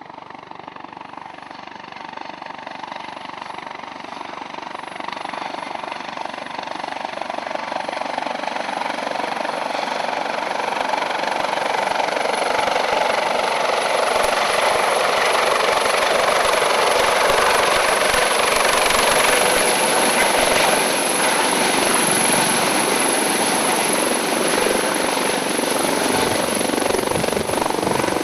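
Helicopter approaching, its rotor and engine noise growing steadily louder over about fifteen seconds and then staying loud, with a high steady whine throughout.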